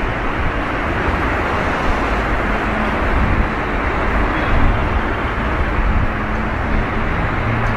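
JR West 221 series electric train approaching slowly, a steady rumbling running noise.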